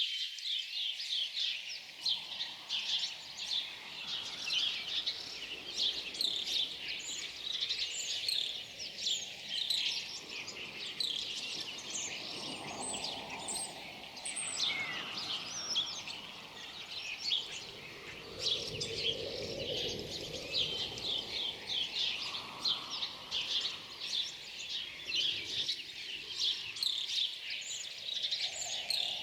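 Chorus of many small songbirds chirping and twittering without a break, their short high calls overlapping densely. A softer, lower rushing sound swells a few times underneath.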